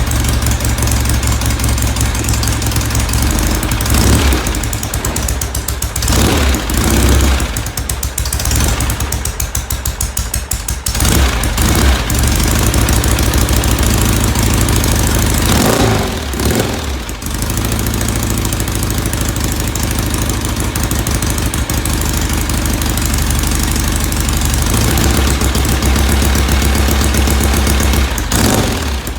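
1970 Norton Commando's 750 cc parallel-twin engine running soon after a cold start, its speed rising and falling several times.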